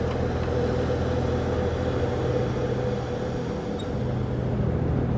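Car ferry's engines and machinery droning steadily with a constant low hum.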